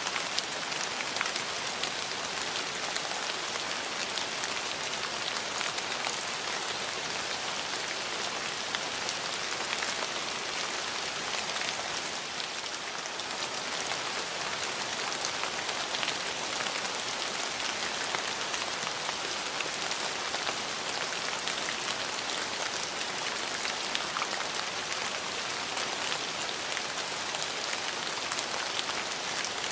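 Steady rain falling on hard surfaces, a dense even patter of many small drops.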